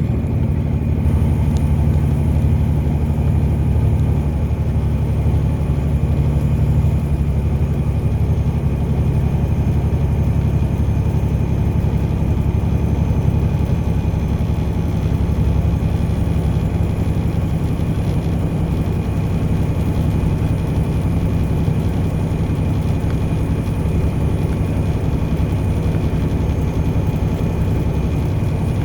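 Car driving along at a steady pace: a constant low drone of engine and road noise, with no change in pitch.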